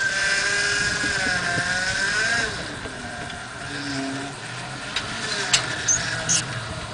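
Off-road 4x4 vehicle engine running, its pitch wavering up and down for the first two seconds or so before settling, with a few sharp knocks near the end.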